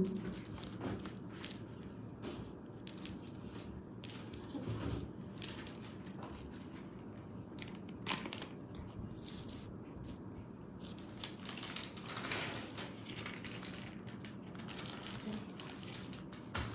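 Small hard jade pieces clicking and clinking against each other and a tabletop, with scattered light ticks and a few longer rustles of packaging as they are handled and bagged.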